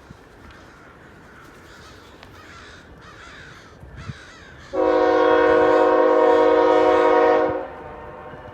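Crows cawing faintly, then about five seconds in a diesel locomotive's air horn sounds one long, steady blast of about three seconds, cutting off and leaving a short echo.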